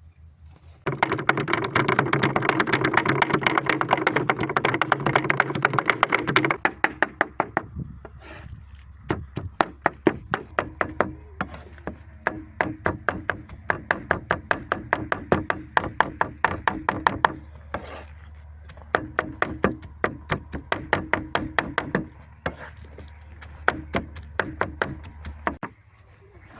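Fast, rhythmic chopping with a knife on a cutting board, several strokes a second, loudest for the first few seconds and stopping shortly before the end.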